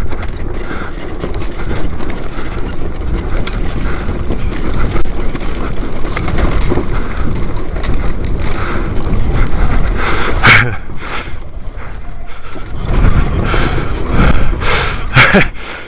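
Dirt bike coasting downhill over rough ground with its engine switched off: a steady rumble and buffeting on the microphone. Loud knocks and clatters come about ten seconds in and again near the end.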